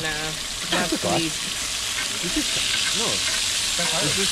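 Food frying in a hot pan, sizzling, with oil spattering; the sizzle grows louder after a couple of seconds. Voices talk over it.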